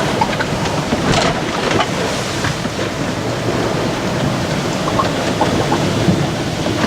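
Rough sea around a small sailing yacht under way: a steady rush of water and wind with many short splashes and knocks scattered through it.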